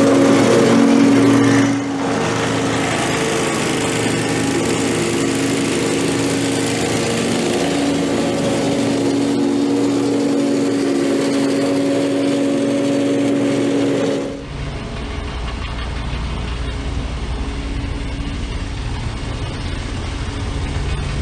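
Lawn mower engine running steadily with a held hum. About two-thirds of the way through, the sound switches abruptly to a deeper, duller engine rumble.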